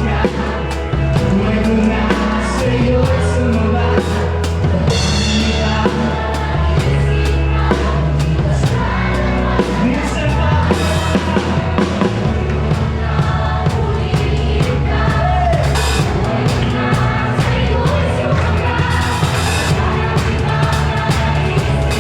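Live band playing a song, with drum kit, bass and a singing voice, steady and loud throughout.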